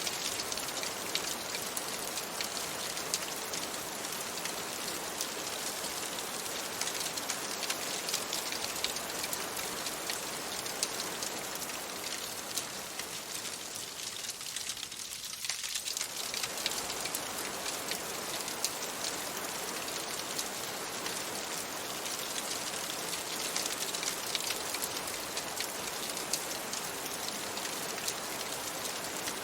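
Steady rain pattering on a window, with many fine crackling ticks from a wood fire layered in. About halfway through, the deeper part of the rain thins briefly, then returns.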